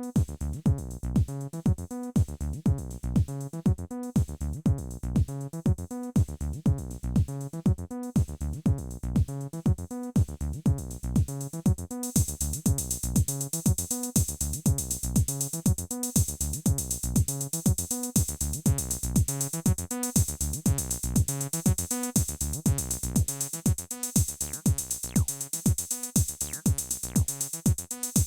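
Electronic jam on a Roland T-8 drum machine: a steady drum-machine kick pattern with a repeating synth bass line. About twelve seconds in, a bright hi-hat or noise layer comes in on top.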